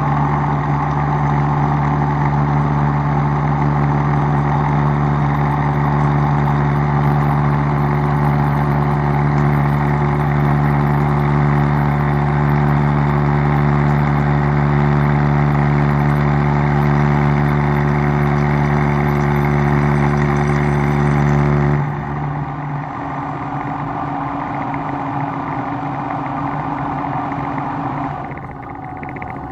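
A shop machine's motor running steadily with a pitched hum, which shuts off abruptly about 22 seconds in. A quieter steady noise carries on after it and drops a little near the end.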